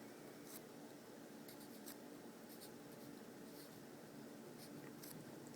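Faint handwriting: a few soft scratching pen strokes as an equation is written out, over a faint steady hum.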